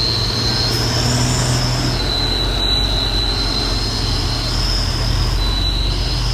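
Heavy trucks in slow, dense traffic: steady low engine hum under a high-pitched brake squeal that shifts between two pitches and breaks off briefly a few times.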